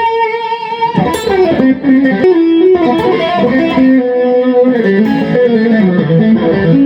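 Fender Stratocaster electric guitar played with its neck and bridge pickups combined through an added push-push switch, for a Telecaster-like tone that is not as crispy as a Tele's. It plays a single-note melodic line, opening on a held note that rings for about a second and ending on another held note.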